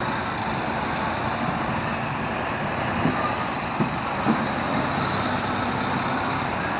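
Logging truck's engine running steadily, with three short knocks about three to four and a half seconds in.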